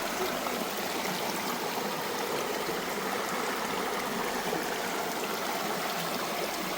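Running water, a steady rushing flow like a stream.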